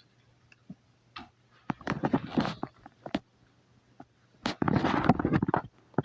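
Road Rippers Radioactive toy garbage truck: two bursts of crackling, rattling noise about two seconds in and again near the end, with a few single clicks between.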